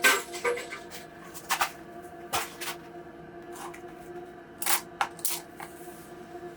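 A series of short, sharp clicks and light knocks, irregularly spaced and loudest right at the start, over a steady low hum.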